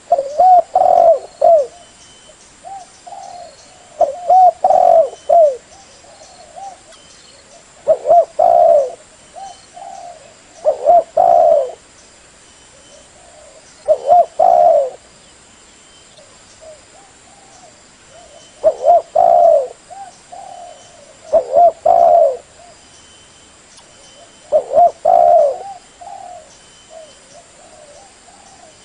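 Spotted dove (derkuku) cooing: a phrase of several short coos repeated every three to four seconds, with softer coos in between.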